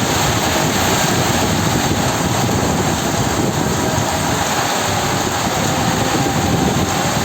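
Heavy tropical rain pouring down in strong wind: a steady, loud rushing hiss with a gusty low rumble underneath.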